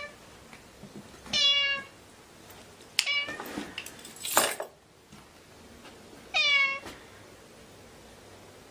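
Domestic cat meowing twice, two short meows about five seconds apart. Between them there is a click and a brief rustling noise.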